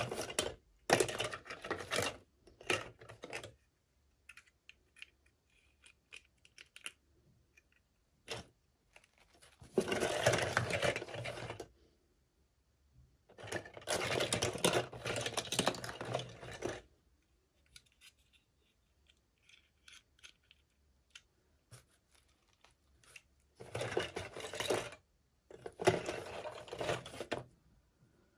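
Toy packaging being opened by hand: bouts of crinkling and tearing, a second or a few seconds long, with small clicks and taps of handling between them.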